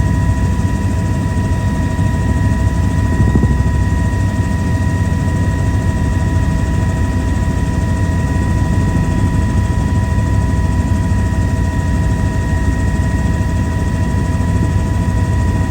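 Helicopter in flight, heard from inside the cabin: a steady, loud low drone from the engine and rotors, with a constant high whine over it.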